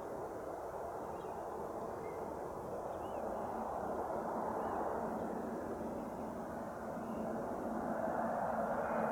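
Embraer Phenom 300 business jet's twin turbofans, growing steadily louder as it comes in to land, with a steady hum joining near the end.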